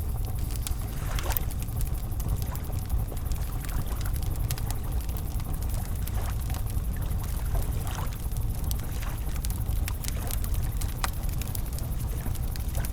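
Wood campfire crackling, with scattered sharp pops and snaps over a steady low rush of the river flowing.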